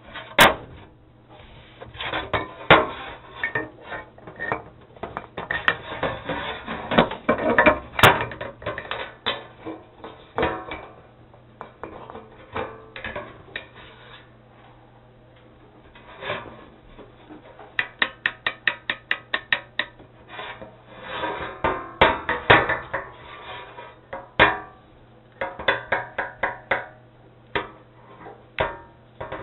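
Metal engine parts, a connecting rod and piston, clinking and rattling as they are handled, with a quick run of about a dozen light clicks a little past halfway through.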